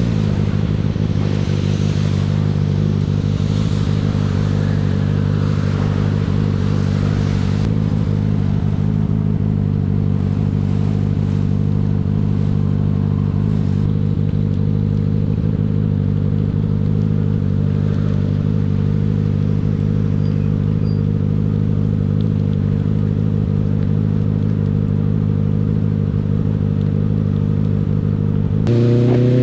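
Honda CB650R's inline-four engine running at a steady, unchanging speed, then rising in pitch and getting louder near the end as it accelerates.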